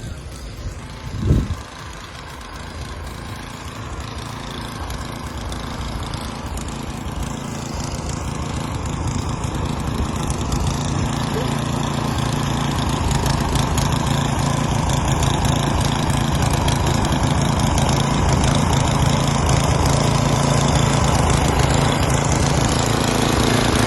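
An engine running steadily, getting gradually louder, with one sharp thump about a second in.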